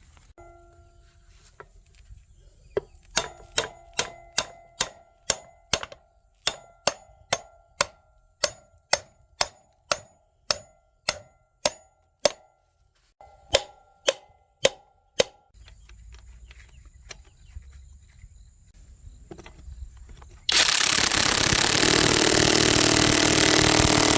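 Metal being hammered by hand, about two even blows a second for some twelve seconds, each blow ringing briefly. Near the end, a loud steady rushing noise starts and runs on.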